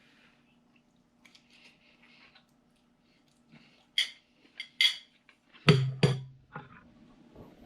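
Cutlery clinking against a dish a few times, then two heavier sharp knocks about two-thirds of the way in, the loudest sounds here.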